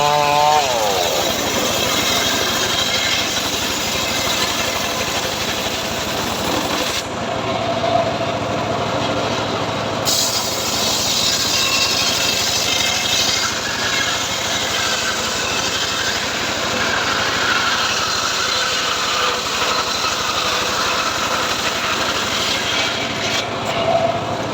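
Engine of a homemade log saw running steadily without a break.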